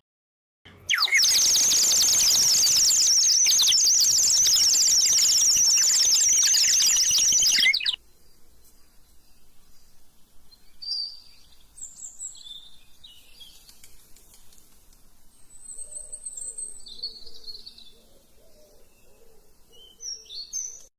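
3D-printed bird whistle blown, giving a loud, rapidly warbling high trill for about seven seconds that cuts off suddenly. It is followed by softer, scattered chirps and short whistled glides.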